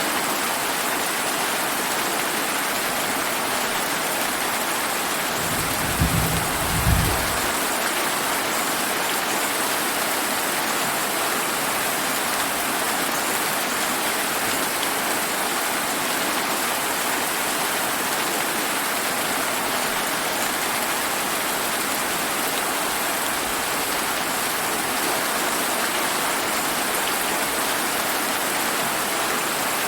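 Steady rain falling, an even hiss throughout. About six seconds in, a short low rumble of thunder swells twice and fades within two seconds.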